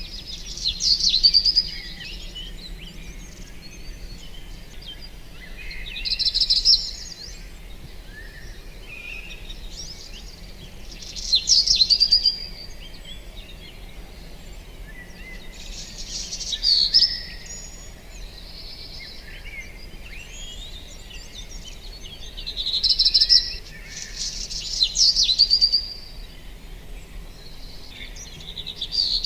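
A songbird sings a short, loud phrase about every five seconds, six times in all, with fainter chirps from other birds in between.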